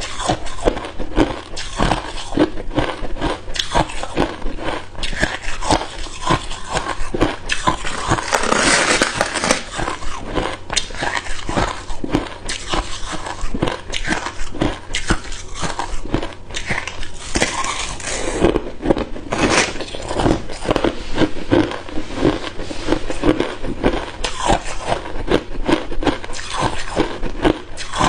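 Close-miked chewing of hard ice cubes: a dense run of sharp crunches and cracks with no break, heaviest in a couple of longer grinding stretches.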